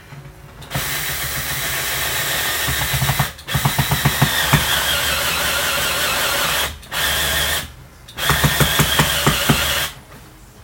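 Cordless drill/driver driving screws into wood, run in four bursts of steady motor whine with pauses between, and rapid clicking in some of the runs.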